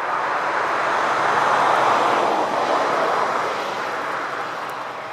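A vehicle passing by on the road: tyre and engine noise swelling to a peak about two seconds in, then fading away.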